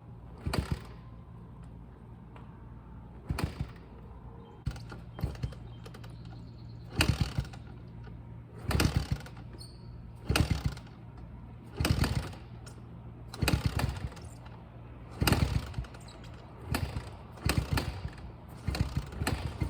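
Dirt bike being kick-started over and over: about a dozen kicks, each a short burst of the engine turning over, coming every one and a half to two seconds, a little faster near the end. A steady low engine hum runs underneath.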